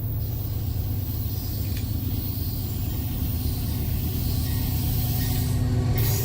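Low, steady rumble of an approaching diesel freight train, growing gradually louder.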